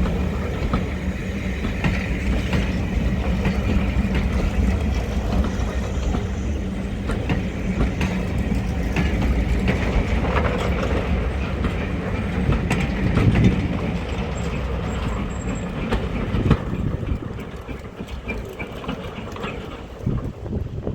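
Class 08 diesel shunter's English Electric six-cylinder engine running steadily, with a few metallic clanks as it moves on the rails; the sound fades in the last few seconds.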